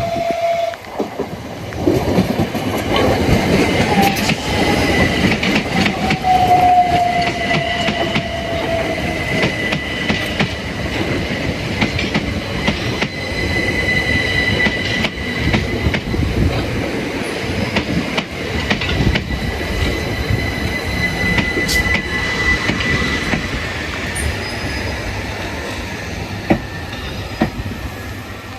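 Southeastern electric multiple-unit train running along the line, its wheels clattering over the rail joints, with a steady high wheel squeal. A tone slides down in pitch over the first several seconds, and the noise fades away over the last few seconds.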